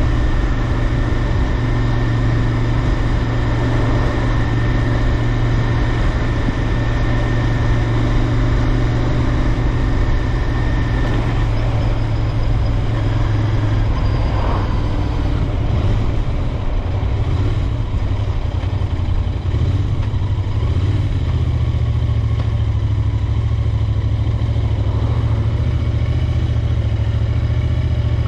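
Royal Enfield Interceptor 650's 648 cc parallel-twin engine and exhaust running steadily. The engine note changes between about 15 and 21 seconds in, then holds steady again.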